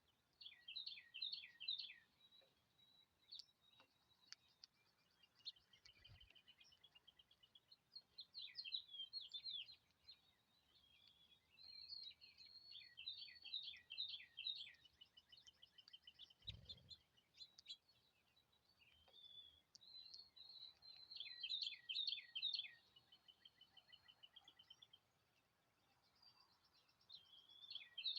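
A songbird singing, repeating phrases of quick down-slurred chirps and fast trills every few seconds, faint. Two brief low thuds come partway through.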